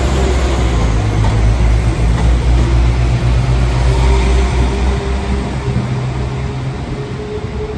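Diesel train engines running loud and steady at the platform, a deep low hum that eases slightly near the end.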